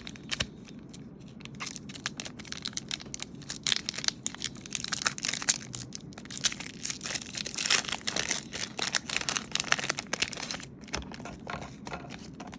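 Foil wrapper of a Pokémon TCG 151 booster pack being torn open and crinkled by hand, a continuous run of irregular crackles and rustles.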